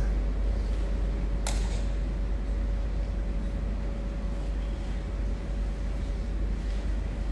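Steady low background rumble with a faint steady hum, broken once by a single sharp click about a second and a half in.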